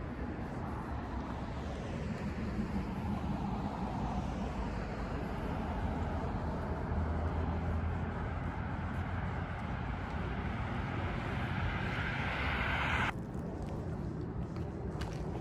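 Steady traffic noise from passing vehicles, building up until the higher part of the sound cuts off abruptly near the end.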